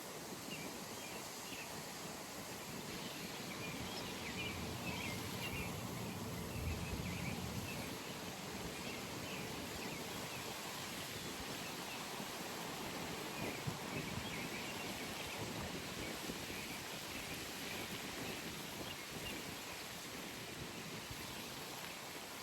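Outdoor pond ambience: a steady rushing noise of wind and rustling leaves, with faint high chirps scattered through it and a low gusting rumble about six to eight seconds in.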